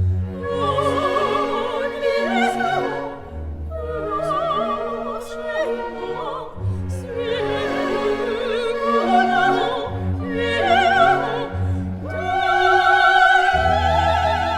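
Operatic singing with a strong vibrato over an orchestral accompaniment.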